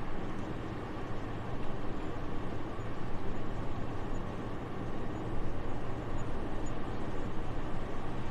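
Soft, steady winter wind: an even, low rushing noise that swells and eases slightly in loudness.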